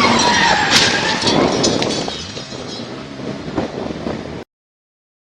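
A car engine and road noise, fading away over a few seconds, with an engine note that dips and then rises; the sound cuts off abruptly to silence about four seconds in.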